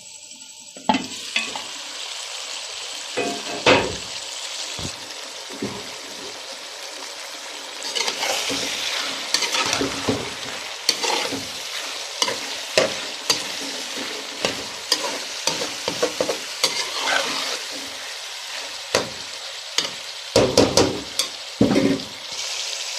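Potato and cauliflower pieces sizzling in hot oil in a pan, a steady hiss that starts about a second in. A utensil stirring the food scrapes and knocks irregularly against the pan, with a run of louder scrapes near the end.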